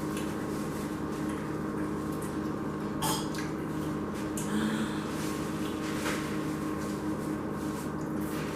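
Room tone: a steady low electrical hum, with a few faint small clicks and rustles of handling.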